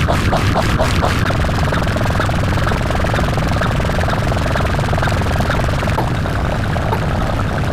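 Steady mechanical rumble with a rapid rhythmic chop, about five beats a second, that fades into a continuous drone after about a second, like a helicopter's rotor.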